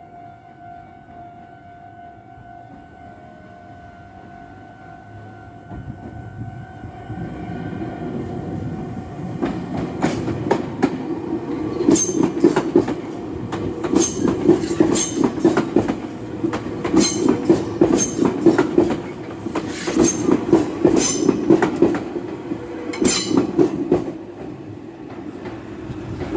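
Meitetsu electric train arriving: a quiet steady tone at first, then from about ten seconds in the wheels clatter loudly over the rail joints, in repeated groups of clicks, as the cars run past, easing near the end.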